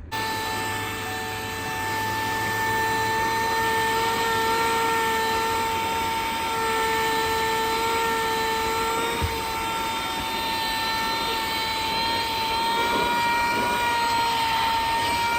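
An inexpensive portable vacuum cleaner switches on and runs with a steady high-pitched motor whine over rushing air. Its pitch wavers slightly now and then, and there is a single click about nine seconds in.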